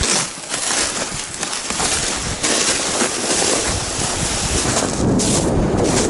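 Strong wind rushing over the microphone out on the open ice, a steady noisy buffeting that grows fuller about two and a half seconds in.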